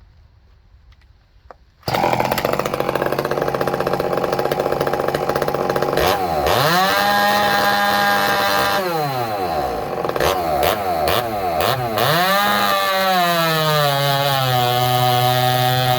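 Ported and expanded-chamber-piped 45cc Chinese chainsaw (a Red Max clone) running flat out, starting abruptly about two seconds in. Its pitch dips and climbs back several times as the bar loads and unloads, then drops in the last few seconds to a steady lower pitch under load in the cut.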